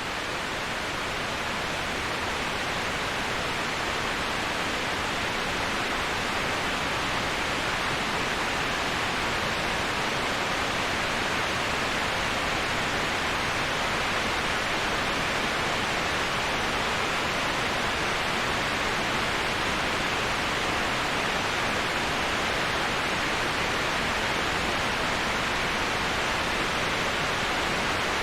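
Waterfall rushing, an even, unbroken hiss of falling water that rises a little in level over the first couple of seconds.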